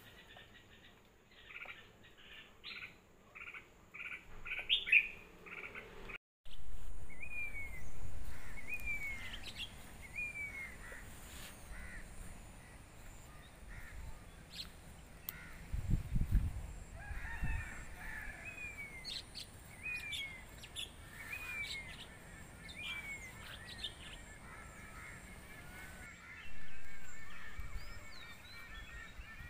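Birds calling: a run of repeated calls that speeds up and climbs in pitch, then a bird repeating a short down-slurred call about every second and a half. Low rumbling noise comes and goes, with a loud surge of it near the end.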